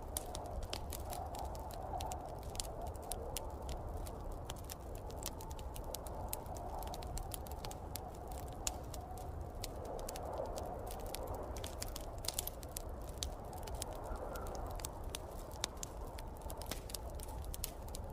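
Wood fire crackling with frequent small sharp pops, over the steady, wavering wind of a snowstorm.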